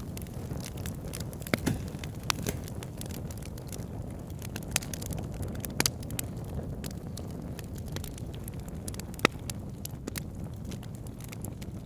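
Wood fire crackling in a fireplace: a steady low rush from the flames with frequent sharp snaps and pops, and a few louder pops scattered through.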